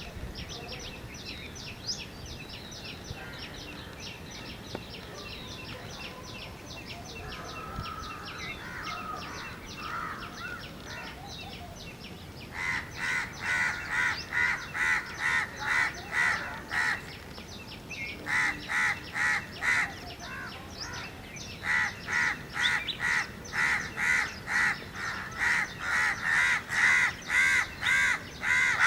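A bird calling a long series of loud, evenly repeated notes, about two to three a second, in runs with short breaks. The calls start about halfway through, after a stretch of faint rapid ticking.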